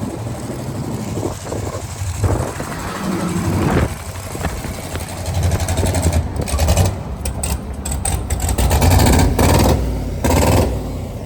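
Twin-turbo LS V8 engine of a swapped limousine running, its note rising and falling with the revs.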